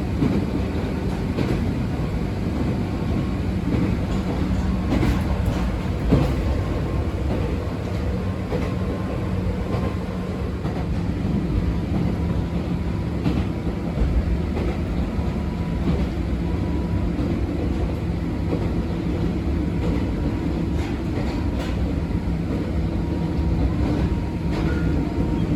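Abukuma Express 8100 series electric train heard from inside the car while running at speed: a steady rumble of wheels on rail with a low motor hum, and a few brief knocks as the wheels pass rail joints.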